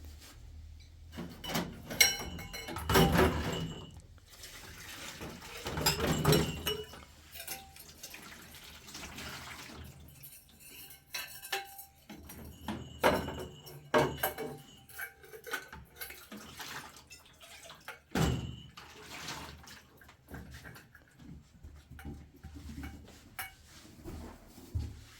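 Dishes and cutlery clinking, with a few swells of running water, as in washing up at a sink.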